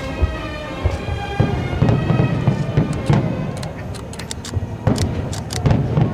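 Fireworks going off: repeated deep booms and sharp crackles over music with long, held tones.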